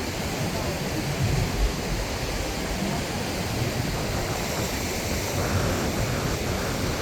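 Wind buffeting the microphone over the steady rush of breaking surf, with gusty low rumbles.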